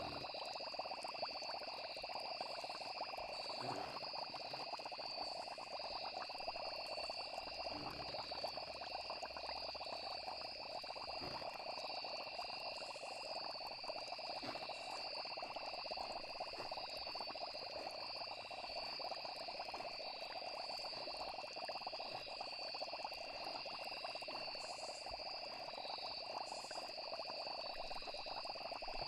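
Night nature ambience: frogs and crickets calling in a steady, unbroken chorus.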